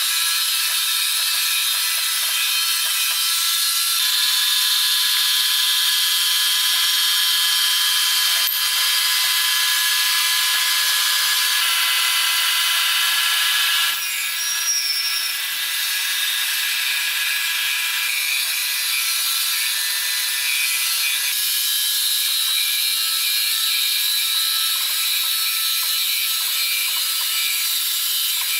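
Sawmill machinery running with a steady, high-pitched mechanical rattle and whine made of several held tones. It dips briefly and shifts about halfway through.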